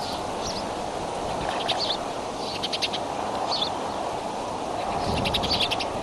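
Birds calling: short high chirps and three quick chittering trills, over a steady background hiss.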